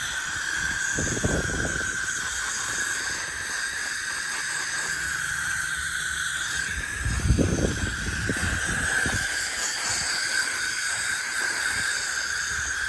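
Garden hose spray nozzle running, a steady hiss of water spraying onto a motorcycle to wet it down before washing, with louder splashing swells about a second in and again around seven seconds.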